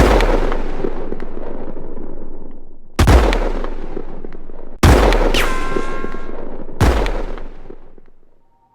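Four loud gunshot-like bangs, the first three about two seconds apart, each echoing away over a second or two. Soon after the third bang, a whine falls in pitch like a ricochet. The last echo fades out near the end.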